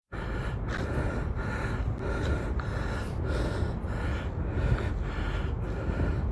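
A jogger panting in a steady rhythm, about three breaths every two seconds, as he finishes a run. A steady low rumble of wind on the microphone runs underneath.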